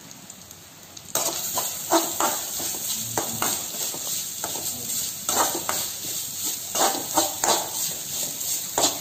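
Grated coconut frying in a little coconut oil in a metal kadai, with a steady sizzle, while a steel spoon stirs it and scrapes against the pan in irregular strokes. The stirring and sizzle start about a second in.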